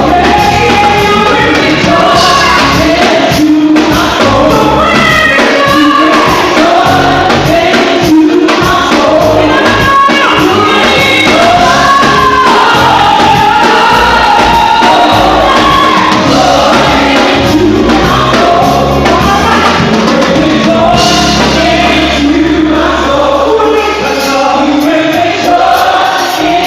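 Gospel choir singing in harmony over a live band with bass, continuous and loud.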